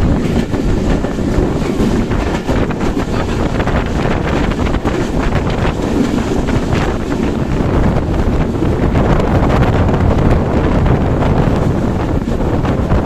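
Wind buffeting the microphone on a moving passenger express train, over the steady running noise of the train on the rails with faint rapid clicks.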